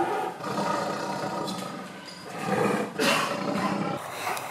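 Male lion roaring, with the loudest call about three seconds in.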